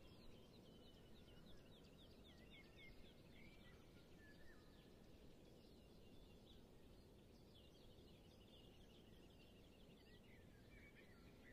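Faint birdsong from small songbirds: rapid trills of repeated notes and short whistled phrases, heard over a steady low background hiss.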